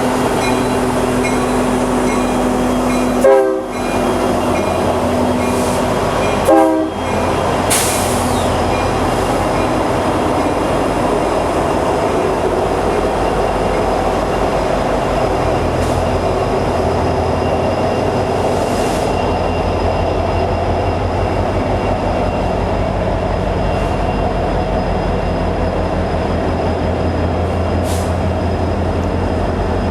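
Norfolk Southern freight train rolling by, a steady loud rumble of diesel locomotives and cars on the rails. Two brief thumps come about three and six and a half seconds in.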